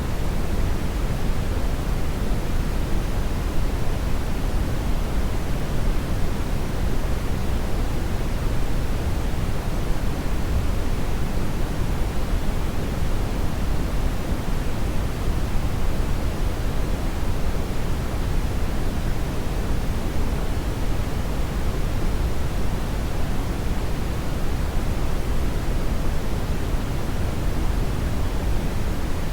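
Hair dryer running steadily: an even, unbroken rush of air, fullest in the low end, that never changes.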